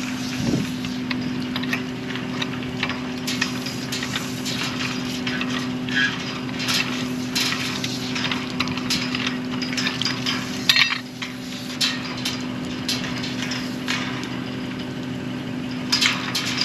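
An engine running steadily at a constant speed, with many sharp metal clinks and knocks from well pipe and tools being handled. The loudest knock comes a little before the middle.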